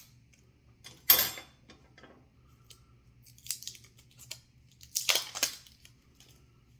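A hot sauce bottle being opened by hand: a loud, sharp rasp about a second in, then shorter scrapes and clicks, and a cluster of quick rasps near the end.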